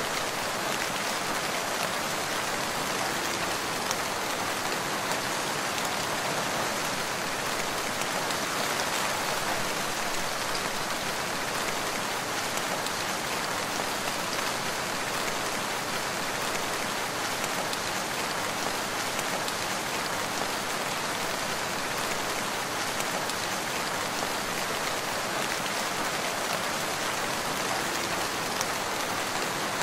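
Steady rain falling on a forest, an even hiss of many drops with no break or change.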